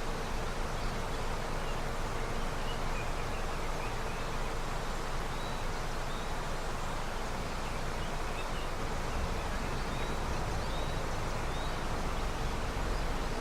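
Steady rush of a river running with snowmelt, with a few faint short high chirps scattered over it.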